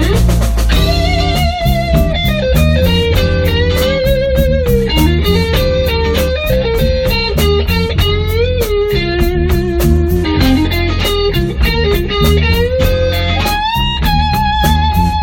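Blues band's instrumental break: a lead electric guitar plays a solo with string bends and vibrato over bass and drums keeping a steady beat.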